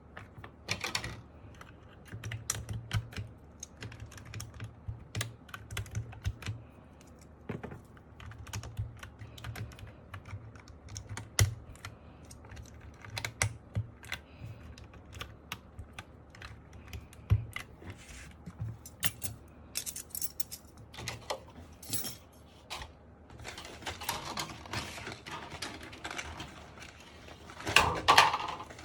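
Typing on a foamed MK870 mechanical keyboard with Sky Panda switches: a steady run of irregular key clicks and bottom-outs, turning into a denser burst of clatter near the end.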